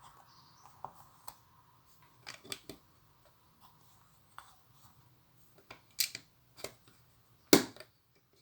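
Plastic Lego pieces being handled and pressed together: scattered small clicks and knocks, with the loudest, a sharp snap, about seven and a half seconds in.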